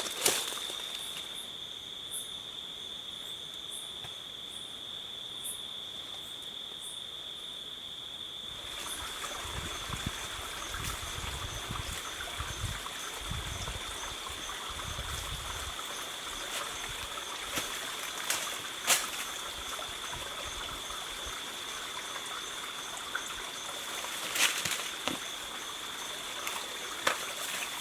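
Small forest stream trickling, getting louder about a third of the way in, over a steady high-pitched drone of night insects, with a few sharp clicks of footsteps.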